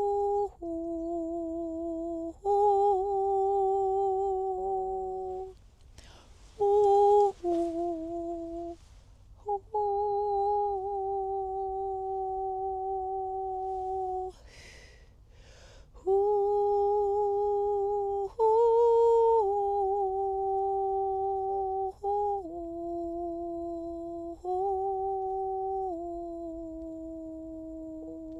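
A woman's voice humming long, held, wordless notes that step between a few nearby pitches, each lasting several seconds. Audible in-breaths break the notes about six seconds in and again about halfway through.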